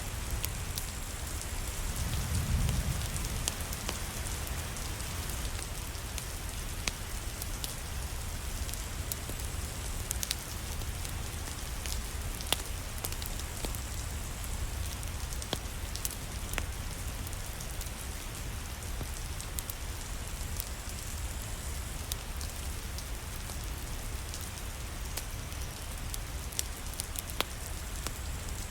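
Steady rain falling, with scattered sharp clicks through it and a brief low rumble swelling about two seconds in.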